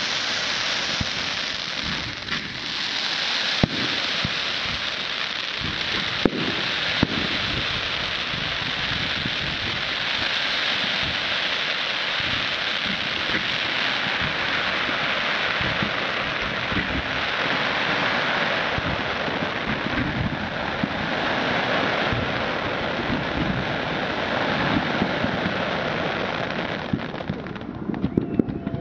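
Fireworks giving off a continuous dense hissing crackle, with a few sharp bangs in the first several seconds. The hiss dies away shortly before the end.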